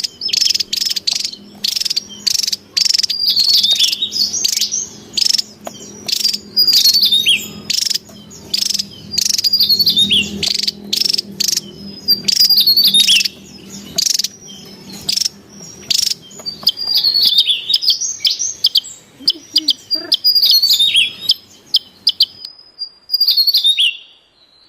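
Javan tesia calling: a quick series of sharp chipping notes mixed with descending whistled phrases, with insects and a low hum beneath. The calling breaks off a little before the end, leaving a few last notes.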